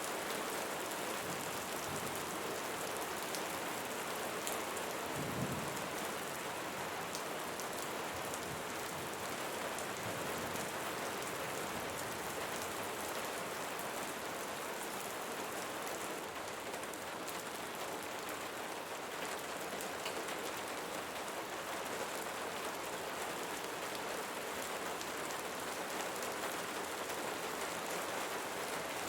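Steady rainfall, a constant hiss of rain with the patter of individual drops. There is one brief low thump about five seconds in.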